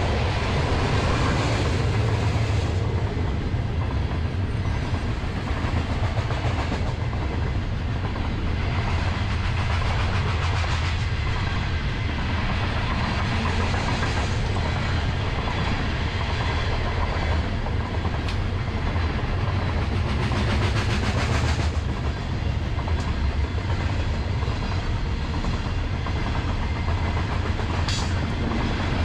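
Freight train of coal hopper cars rolling past: steady rumble of steel wheels on the rails.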